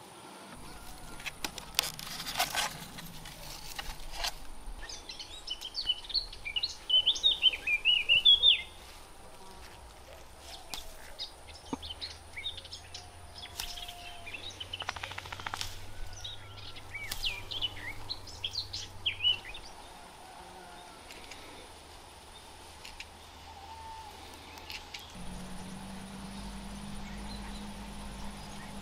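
Small birds chirping in quick twittering runs, loudest about a quarter of the way in and again around the middle, over rural outdoor ambience with a few sharp clicks.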